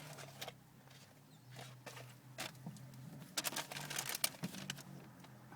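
Scattered clicks and rustling, thickest from about three to four and a half seconds in, over a steady low hum.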